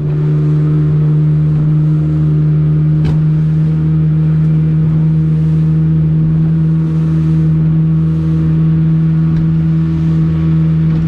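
Small fishing boat's engine running at a steady speed, one unchanging pitch throughout.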